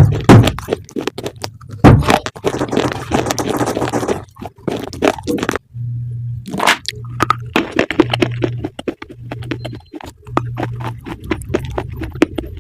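Crunching, crackling and scraping of something crunchy being bitten and chewed, in a dense run of sharp cracks. From about halfway a low hum pulses on and off roughly every second and a half beneath the crunching.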